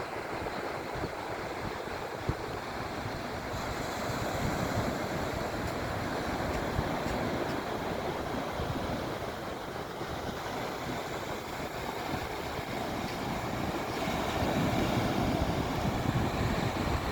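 Sea surf washing onto the shore, with wind buffeting the microphone as a low rumble. It swells a little louder near the end.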